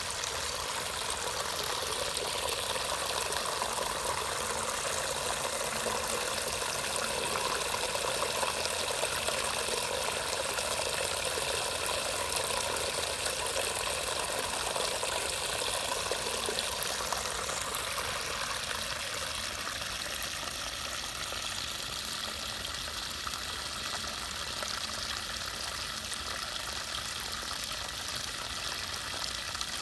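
Floodwater rushing steadily through a cleared drain or culvert, with a continuous splashing pour that eases slightly in its lower, fuller part past the middle.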